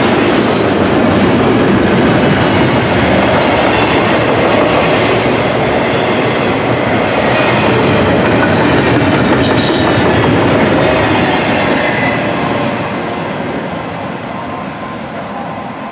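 Double-stack intermodal container cars rolling past: steady rumble and clatter of steel wheels on the rails. The sound fades over the last few seconds as the train moves away.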